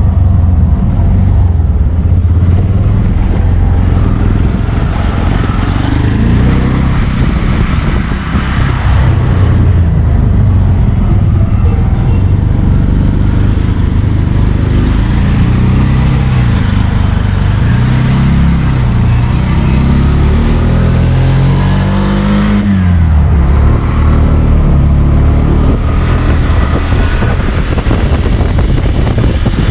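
A road vehicle's engine running under way, its pitch rising and falling as it speeds up and slows, over steady road and wind noise.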